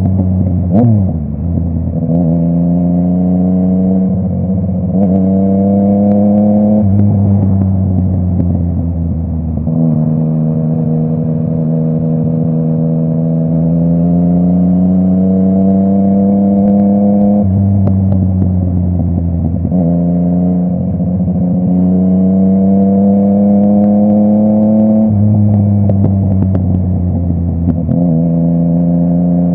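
Yamaha MT-09's three-cylinder engine through a full Akrapovic exhaust, running under way. The engine note rises and falls with the throttle, dropping sharply and climbing again several times: about a second in, around a third of the way through, and a few times later.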